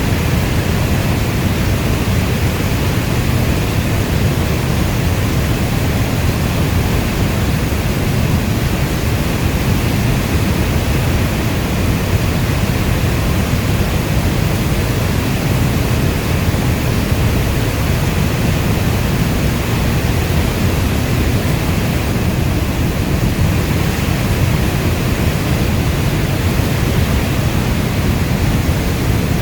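Steady heavy rainfall, a dense even rush weighted toward the low end, with no single drops or thunder standing out.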